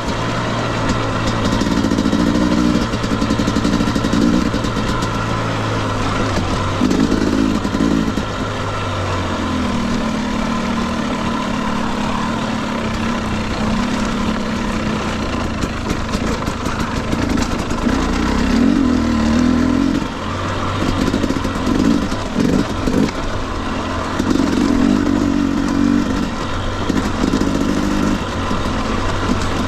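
2021 Husqvarna TE250i two-stroke dirt bike engine running under changing throttle, its revs rising and falling in short bursts, with scattered clatter.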